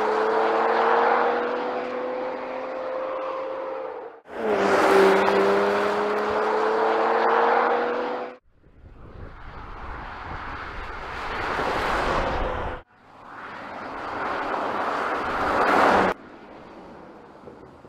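2022 Porsche Macan GTS's 2.9-litre twin-turbo V6 accelerating, heard from the roadside in four short clips that each cut off suddenly. In the first two the engine note rises; in the last two the car grows louder as it comes closer and passes.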